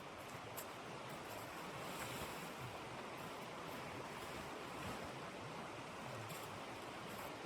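Steady rush of blizzard wind, with a few faint ticks.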